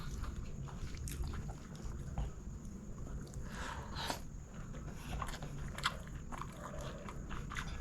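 Close-miked chewing and biting of chicken biryani, with irregular short wet clicks and crunches from the mouth.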